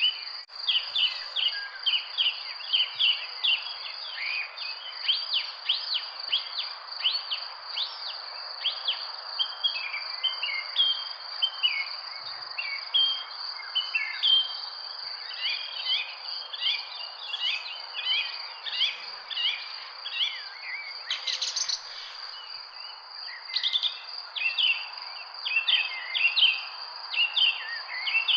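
Many small birds chirping and calling in quick, overlapping notes, over a steady high-pitched insect drone.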